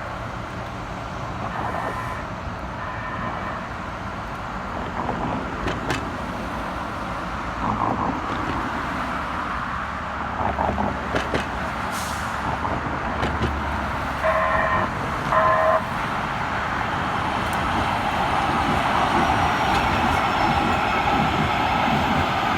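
Kinkisharyo light rail train and street traffic running steadily, with two short horn toots about fourteen seconds in. The running noise grows louder toward the end as the train comes closer.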